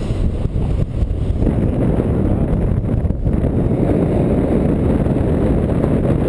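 Wind buffeting the microphone of a paraglider in flight in strong wind: a loud, steady low rumble.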